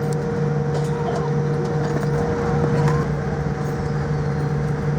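Steady cabin hum inside a Boeing 787-9 on the ground after landing: even airflow and machinery noise with a constant low drone, with faint passenger voices in the background.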